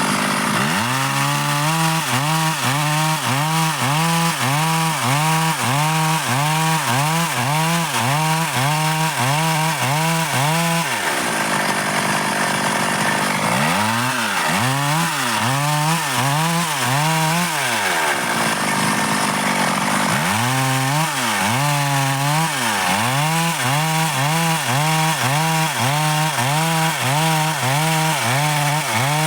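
Stihl MS 382 two-stroke chainsaw cutting dry wood, its engine pitch dipping and recovering in a steady rhythm about once or twice a second as the bar works through the cut. The rhythm breaks briefly twice, about eleven and eighteen seconds in.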